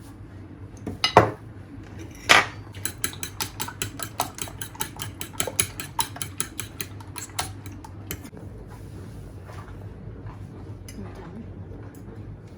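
Two sharp knocks against a dish about a second apart, then a utensil clinking rapidly against a bowl, about five or six clicks a second, for several seconds before trailing off into a few scattered taps.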